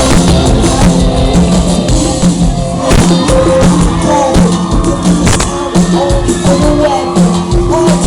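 Live pop-rock band playing loudly, with drums keeping a steady beat under held notes and a singing voice.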